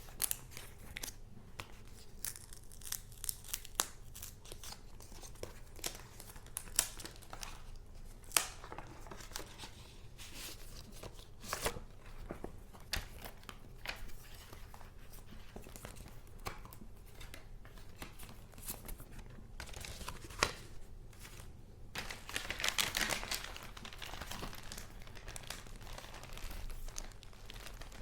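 Paper goods being handled: crinkling and rustling with many sharp crackles, and a longer, denser rustle late on.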